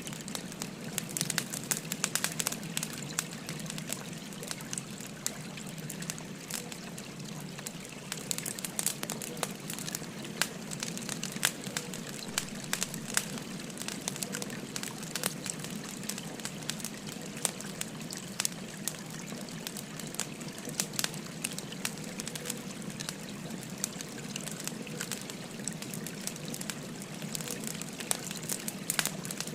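Wood fire crackling, with frequent sharp pops scattered throughout, over the steady rush of a flowing stream.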